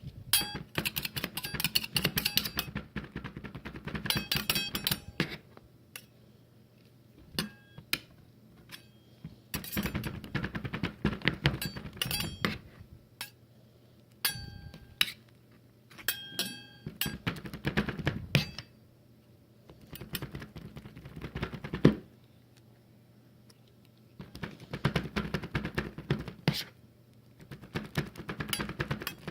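Spatulas chopping and scraping on a metal ice-cream plate in rapid bursts of tapping and clattering a few seconds long, with pauses between. Now and then a short metallic ping rings out.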